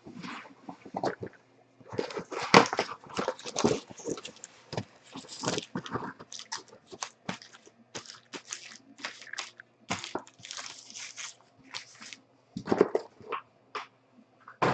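Foil trading-card pack wrappers crinkling and tearing, with cards being handled, in a rapid irregular run of crackles and rustles.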